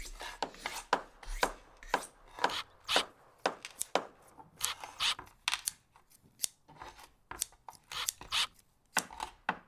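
Repeated short scraping strokes, about two a second, each starting sharply and dying away quickly, like hand work on a hard surface.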